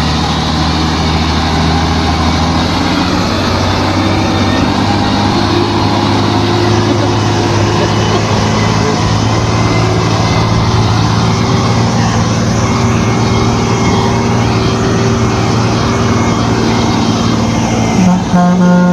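Heavy truck's diesel engine running under load, its pitch shifting a little as it works. A loud horn blasts about a second before the end.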